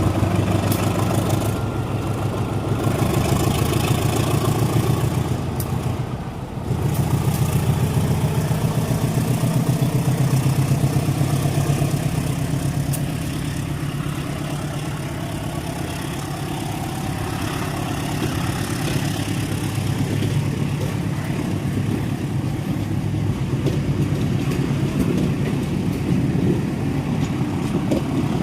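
Diesel locomotive engine running steadily with a deep, even hum, briefly dropping about six seconds in before picking up again.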